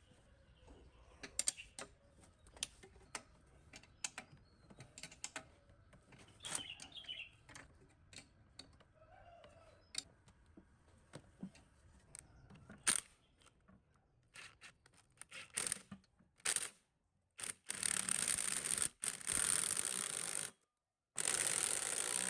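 Scattered light clicks and taps of hand work on small metal parts. Near the end come two long bursts of steady hissing noise that start and stop abruptly.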